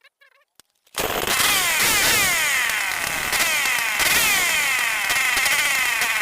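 Stihl 070 two-stroke engine, being coaxed back after flooding its carburettor, bursts into running about a second in and keeps going, its pitch sweeping down again and again.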